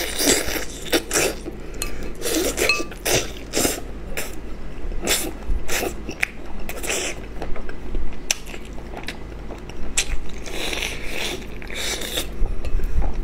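Close-miked eating: a man chewing and sucking on a chicken head, with irregular crunches of small bones and wet smacking and slurping mouth sounds.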